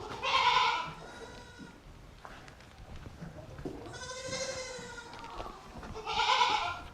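Goats bleating: three loud calls, one just after the start, a longer one about four seconds in, and another near the end.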